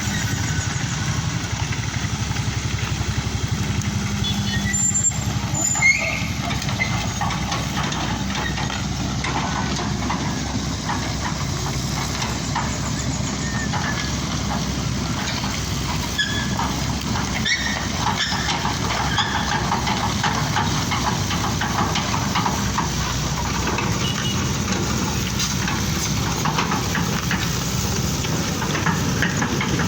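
Vehicle engine running steadily with a low rumble, with scattered short high squeaks over it.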